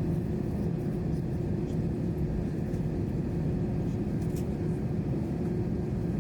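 Airbus A321 cabin noise with the engines running as the plane taxis after landing: a steady low rumble with a constant hum through it.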